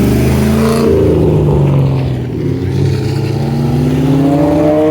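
Car engine revving hard, its pitch rising and falling several times, during a burnout that sends up white tyre smoke.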